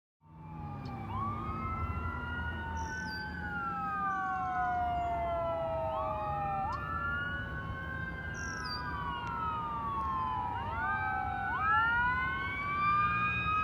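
Fire engine sirens wailing on a code 3 response: several overlapping slow rising and falling sweeps, with a few quicker sweeps about two-thirds of the way in, over the low rumble of the engine.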